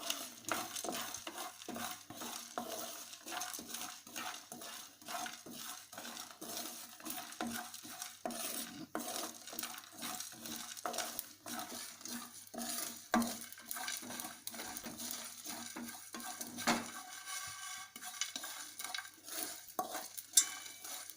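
A spoon stirring and scraping whole spices (cinnamon, cloves and seeds) around a kadai as they are lightly dry-roasted until fragrant, in many irregular scraping and clinking strokes over a faint sizzle.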